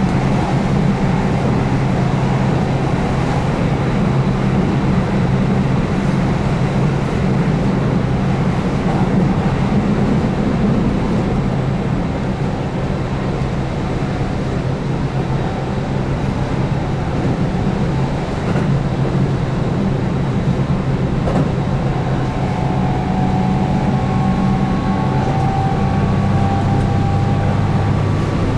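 Keihan 8000 series electric train running at speed on its nonstop stretch, heard from inside the car: a steady rumble of wheels on rail with the hum of its DC traction motors. A faint higher tone joins about twenty-two seconds in and holds.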